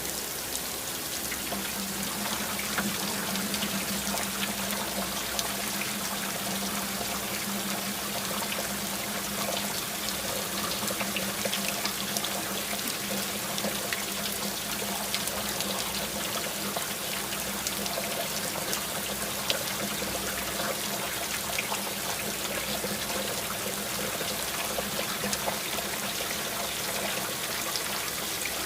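Steady rain falling, with a dense patter of individual drops over a constant wash of trickling, running water. A low steady hum comes in about a second and a half in and carries on underneath.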